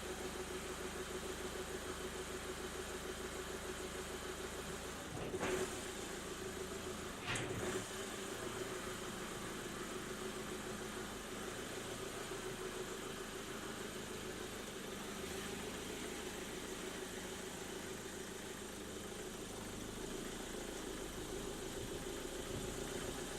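A vehicle engine idling steadily with an even, pulsing hum, and two short swishes about five and seven seconds in.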